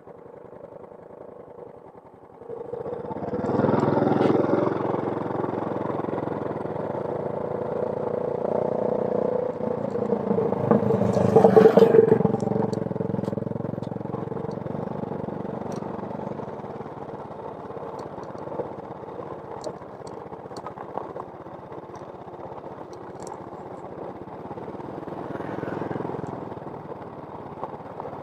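A motor vehicle passes by. It comes in suddenly about two and a half seconds in, is loudest around the middle and fades slowly after that. A fainter swell follows near the end.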